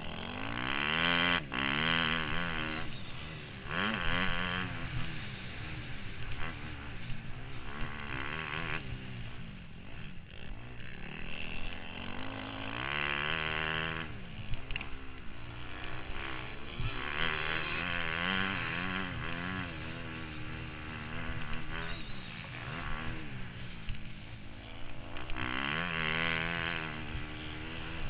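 Motocross bike engine, heard from the rider's helmet, revving up and down over and over as the throttle opens and closes and gears change, with louder high-revving pulls every few seconds.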